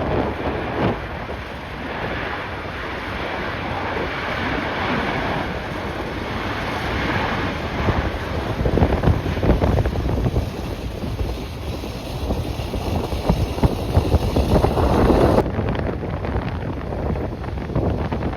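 Strong gusty wind buffeting the microphone: a continuous rushing rumble that swells and drops with the gusts.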